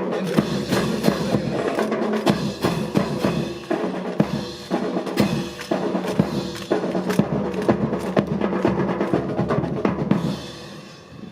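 Marching drill music led by snare and bass drums with drum rolls, over sustained band tones; it fades out about ten and a half seconds in.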